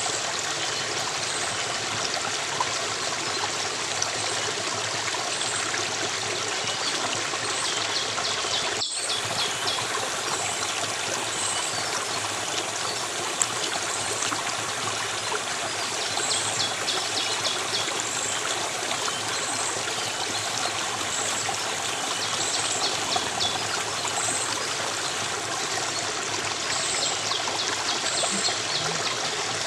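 Steady running water of a flowing stream, trickling and splashing without pause, with a momentary break about nine seconds in.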